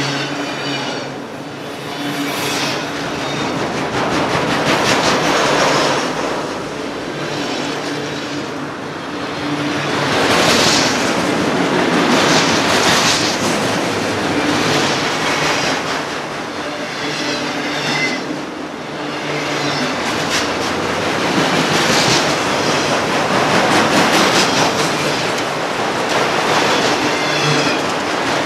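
CSX autorack freight cars rolling past at speed: a continuous rumble and clatter of steel wheels on rail, with brief high-pitched wheel squeals now and then.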